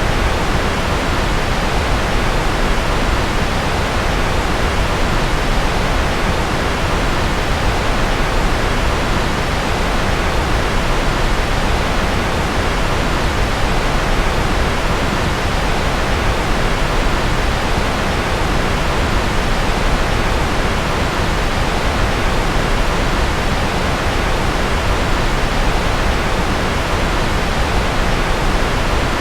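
Continuous, steady rushing noise from a white-noise sleep track billed as rocket noise. It is even and unchanging, heavier in the low end and thinning toward the highs.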